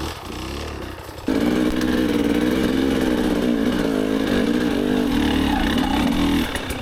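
KTM enduro dirt bike engine running under throttle while riding; it gets much louder about a second in, wavers in pitch, and drops back near the end.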